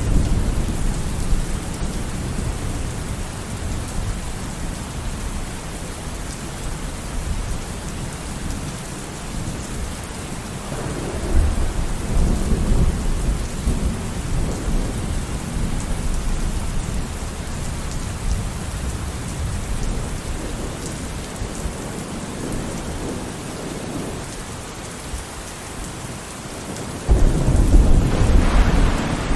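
Steady rain with rolling thunder. A low rumble of thunder swells about eleven seconds in, and a louder, sudden crack and rumble breaks near the end.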